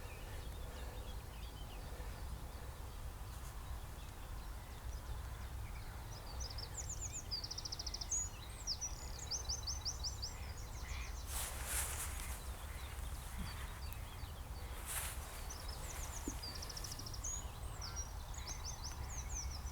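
Small songbirds singing in short phrases of quick repeated high notes, in two spells, over a steady low outdoor rumble, with two brief rustles in between.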